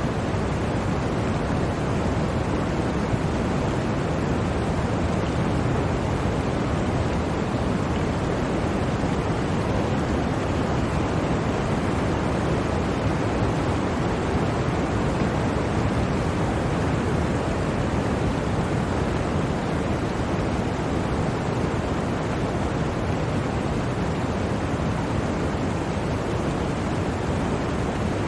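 Blizzard wind blowing as a steady, unbroken rushing noise, heaviest in the low end, without distinct gusts.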